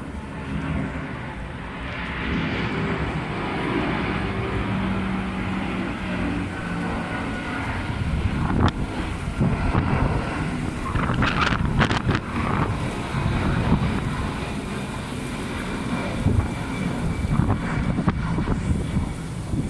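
Airbus A330 airliner's jet engines at takeoff power during departure: a steady rushing noise with a faint whine in it. From about eight seconds in, gusts of wind buffet the microphone.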